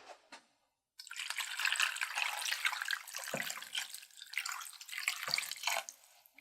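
Kitchen tap running water into a sink, starting suddenly about a second in, with a couple of low knocks under the stream.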